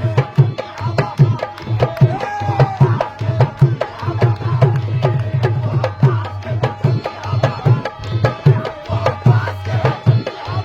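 Qawwali music: hand drums playing a fast, steady rhythm with deep bass strokes under a wavering melody line.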